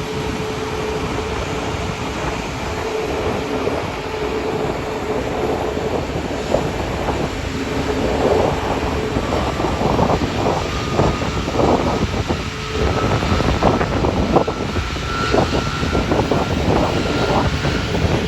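Boeing 757-200 rumbling steadily during pushback, with irregular knocks and jolts from about eight seconds in. From about ten seconds in, a faint high engine whine rises slowly in pitch.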